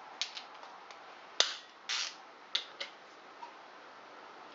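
Irregular sharp metallic clicks and knocks, about seven in all, with one louder knock about a second and a half in, as a Honda SL125 engine is turned over by hand on the bench.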